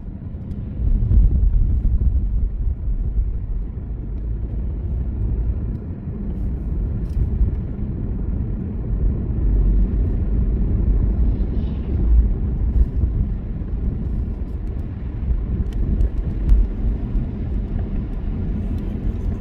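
A car driving: a steady low rumble of engine and tyre noise on the road.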